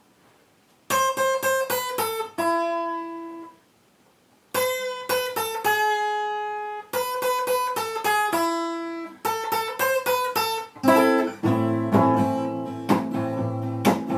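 Acoustic guitar playing an introduction: short plucked phrases, each ending on a held note, with two brief pauses, then fuller strumming with a bass line from about eleven seconds in.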